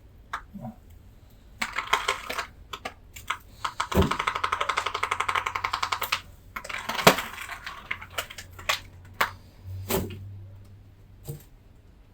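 Clicks and knocks from handling an air handler's access panel, with a rapid ratcheting run of about ten clicks a second lasting about two seconds in the middle.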